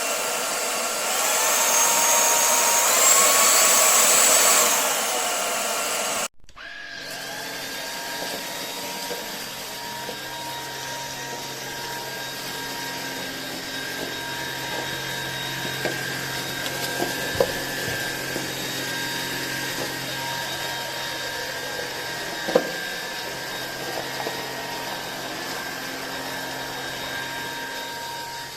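Cordless stick vacuum cleaner's brushless motor running, loud at first with its pitch gliding up and down. It cuts off abruptly about six seconds in, then runs on quieter and steadier, with a couple of sharp clicks.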